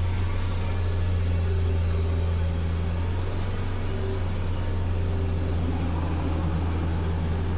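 Motorcycle engine idling steadily after a carbon-deposit cleaning, a smooth, even low hum with no change in speed.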